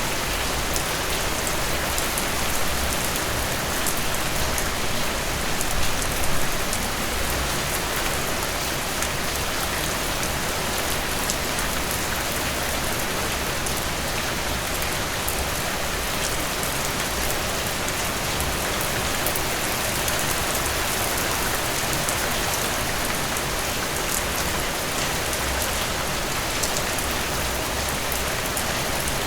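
Heavy rain falling steadily, a dense hiss with the close crackle of drops striking a surface.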